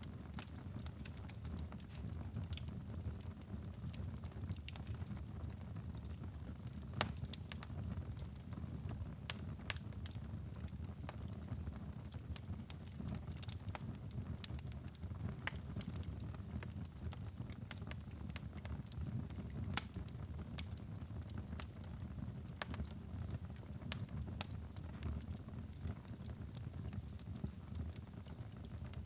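Wood fire burning in a fireplace: irregular sharp crackles and pops over a steady low rumble of flames, with one louder pop about twenty seconds in.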